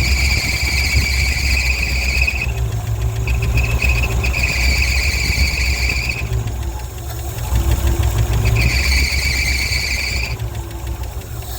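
1967 International 1200 pickup's engine running after a winter cold start, with a loud high-pitched squeal coming and going three times over it. The engine keeps dying, which the owner suspects is fuel starvation from an iced-up carburetor.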